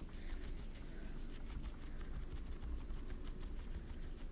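Faint rubbing and light scratching on paper, over a steady low hum.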